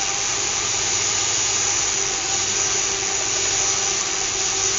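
Small electric motors of a fischertechnik monorail model running steadily: an even whirring hiss with a faint, constant hum beneath it.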